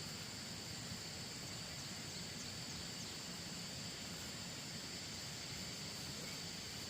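Steady outdoor ambience with a constant high-pitched insect chorus.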